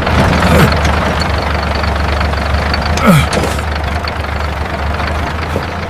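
Tractor engine running with a steady low drone. Two short falling pitched cries sound over it, about half a second in and about three seconds in.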